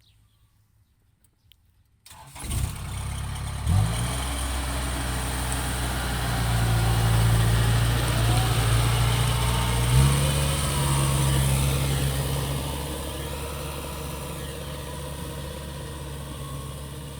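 Tractor engine starting about two seconds in, then running steadily with a low hum. Its pitch steps up once about ten seconds in, and it grows a little quieter toward the end.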